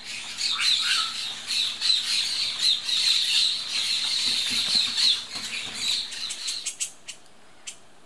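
Harsh, squawking bird chatter, a dense run of rasping calls that stops about six and a half seconds in, followed by a few sharp clicks.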